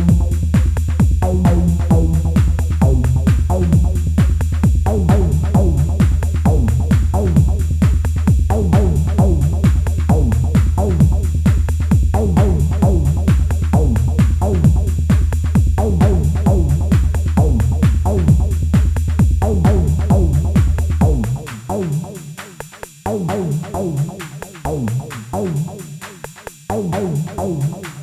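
Improvised techno played on an Elektron Analog Rytm drum machine: a steady, driving drum pattern with a heavy low bass line and synth notes. About three-quarters of the way through, the low end suddenly drops out, leaving sparser percussion and synth.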